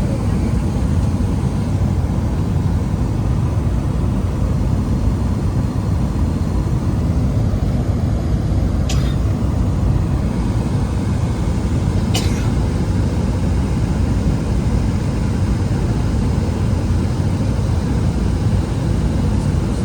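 Steady low rumble of cabin noise inside a Boeing 777-300ER, the sound of its engines and airflow. Two short clicks come about nine and twelve seconds in.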